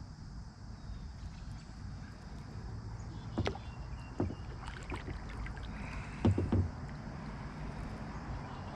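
Knocks and bumps on a kayak, single knocks about three and a half and four seconds in and a quick run of three, the loudest, a little past six seconds, over a steady low rumble of water and wind on the mic.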